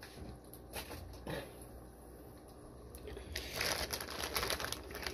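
Plastic fish shipping bags crinkling as they are handled: a couple of short rustles, then a longer, louder stretch of crackling in the last couple of seconds.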